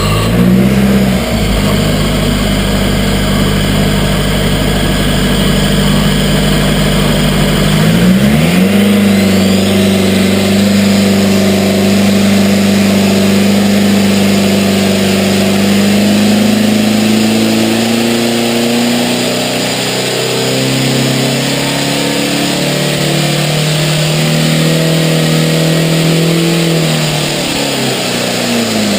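An engine revving up, rising sharply twice, holding at high revs, then easing down in steps and dropping back near the end.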